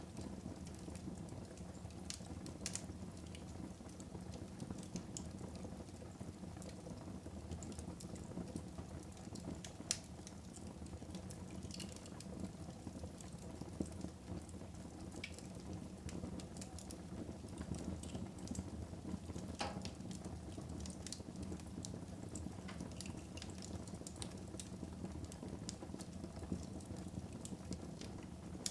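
Fire burning in a fireplace: a steady low rumble of flames with scattered crackles and sharp pops, the loudest pop about ten seconds in.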